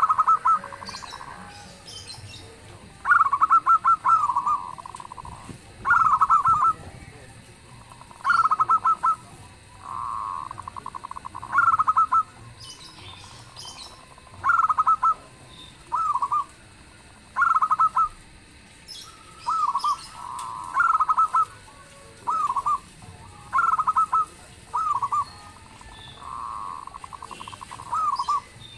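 Zebra doves cooing: repeated phrases of quick, stuttering coo notes, one roughly every two seconds, with loud phrases alternating with fainter ones as another dove answers.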